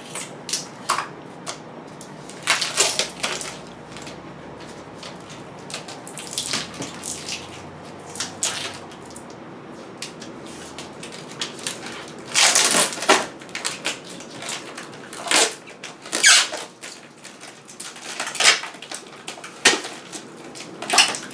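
Protective plastic film and packing tape being peeled off a stainless steel refrigerator, tearing in irregular short bursts, loudest about halfway through.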